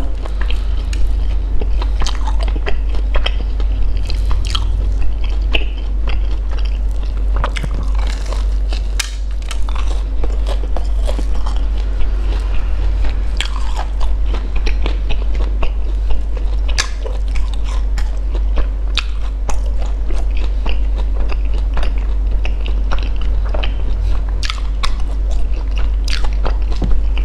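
Close-miked crunchy biting and chewing of a sugar-glazed fried glutinous-rice cake (bánh cam), with many irregular crisp crackles.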